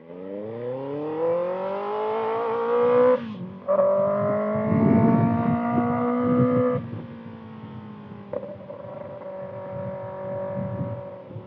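Kawasaki ZX-6R 636 cc inline-four through a Voodoo slip-on exhaust, accelerating hard with a rising note. It upshifts about three seconds in and pulls through the next gear, then eases off to a lower, steadier cruise about seven seconds in.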